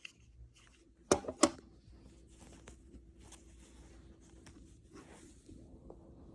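Hands handling a plush toy: two sharp clicks about a second in, then soft rustling and scraping of fabric with a few small ticks.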